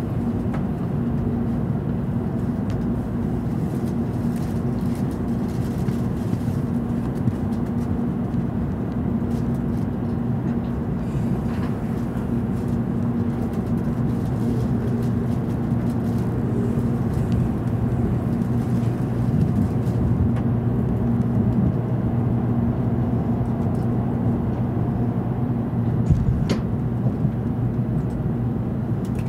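Cabin running noise inside an N700 Series Shinkansen car as it rolls out of the station at low speed: a steady rumble with a low hum that shifts lower about halfway through. A brief click near the end.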